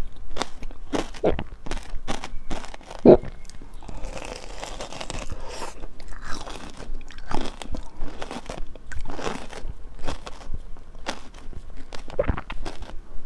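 Close-miked biting and chewing of a corn-cob-shaped jelly, a run of crunchy bites and chews with the loudest bite about three seconds in.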